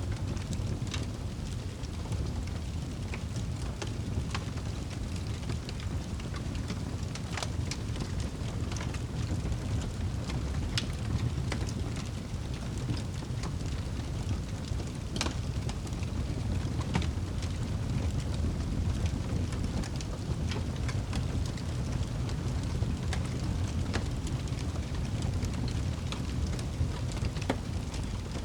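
Wood fire crackling in a fireplace: a steady low rumble from the flames with scattered sharp pops and snaps, one louder pop about halfway through.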